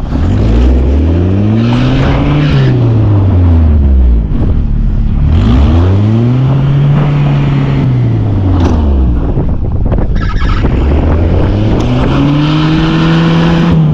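An SUV engine revving up and easing off three times, each surge rising and falling over about three seconds, as the vehicle tries to push through deep snow. A loud rushing noise runs underneath.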